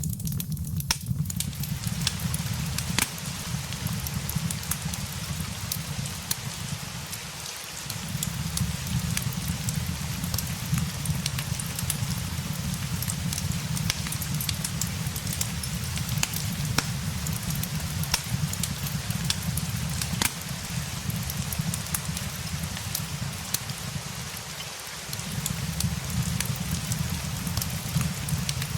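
Steady rain with a crackling fireplace: a continuous hiss of rain overlaid with frequent small sharp pops and snaps from burning wood, over a low rumble that drops out briefly twice.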